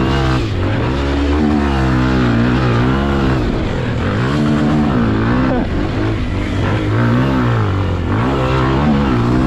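Pit bike engine heard from on board, revving up and dropping back again and again as the throttle is opened and closed around the track, about six times.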